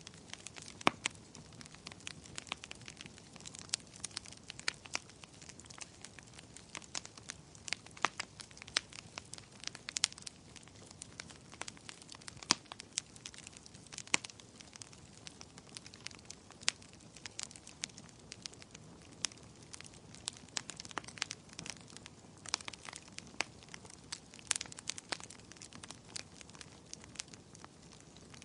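Wood fire burning, with a steady soft hiss and frequent irregular sharp crackles and pops from the burning logs.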